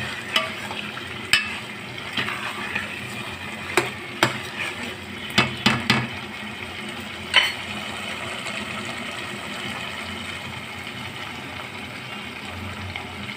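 Chicken palak curry sizzling in oil in a pot as it is fried down until the oil separates, while a metal spoon stirs it, knocking against the pot several times in the first seven seconds or so; after that only the steady sizzle.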